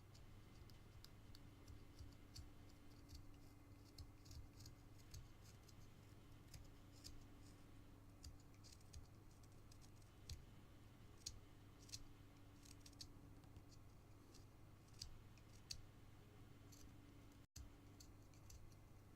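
Faint, irregular small clicks and scrapes of a carving knife paring basswood, over a steady low hum.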